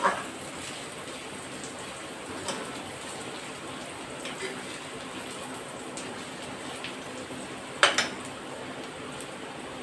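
Onions and ginger-garlic paste frying in oil in a steel kadhai, a steady sizzle. A long-handled steel ladle scrapes and clinks against the pan a few times, loudest near the end.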